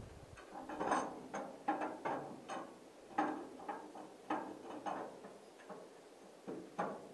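Hand crank turning over a 1946 Dodge truck's flat-six engine by hand: a series of mechanical clicks and knocks at uneven intervals, about one every half second, without the engine catching.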